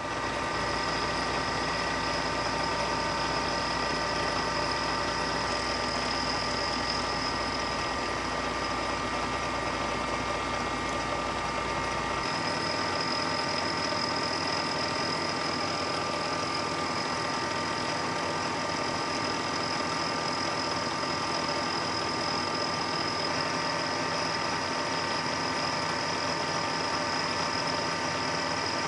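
Milling machine running steadily while machining an aluminum vise jaw, with a steady high whine over a mechanical hum; the deepest part of the hum drops away about twelve seconds in.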